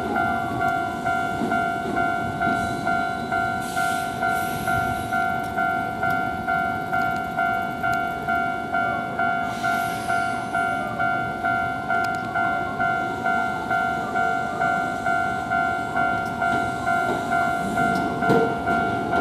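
Kintetsu electric train pulling out of the station, with its running noise growing near the end. Over it, a steady electronic warning bell repeats about twice a second.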